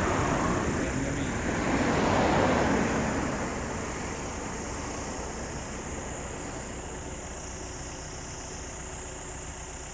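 Airliner landing: a steady engine and rushing noise, loudest in the first few seconds and then fading to a lower, even level as the aircraft slows or moves away.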